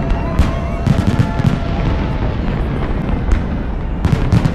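Aerial fireworks exploding in a rapid, unbroken run of low booms and sharp cracks.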